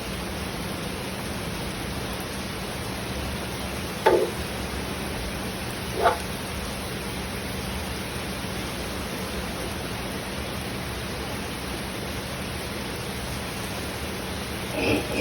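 Steady rain falling, an even hiss, with a low hum beneath it. A dog barks twice, once about four seconds in and again two seconds later.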